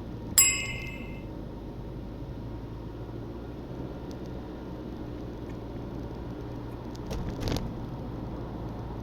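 Honda Freed 1.5-litre petrol engine and road noise heard as a steady drone inside the cabin while cruising. About half a second in, a single bright bell-like chime rings out and fades over about a second.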